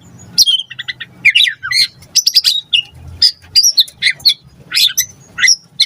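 White-rumped shama (murai batu) singing a fast, unbroken song of sharp chirps, sweeping whistles and short rattling phrases, one phrase after another with barely a pause.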